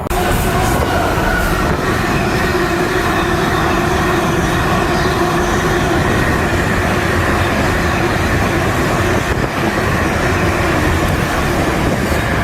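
A train running close past, a steady loud rush of wheels and running gear with a few faint held tones over it.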